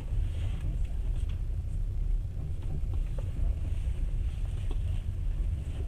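Passenger train running, heard from inside the carriage: a steady low rumble with faint light ticks now and then.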